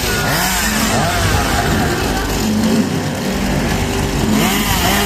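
Chainsaw engines revving up and dropping back over and over, several overlapping, over a steady idling drone.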